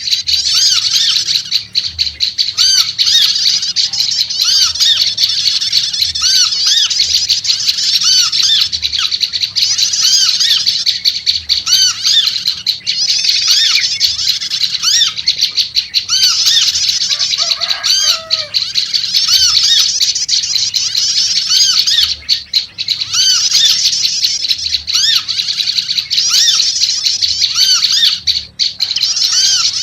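Prenjak lumut (prinias) chattering loudly and continuously in fast, high-pitched, scolding runs. Lower arched call notes recur about once a second, which fits the trucuk (yellow-vented bulbul) calls mixed in.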